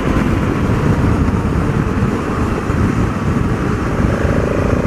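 Steady wind rush and engine of a BMW F650 GS single-cylinder motorcycle cruising at about 70 mph. A faint steady tone joins about four seconds in.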